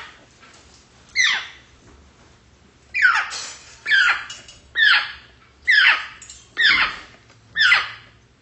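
African grey parrot giving a run of about seven short squawks, each sliding sharply down in pitch, roughly one a second.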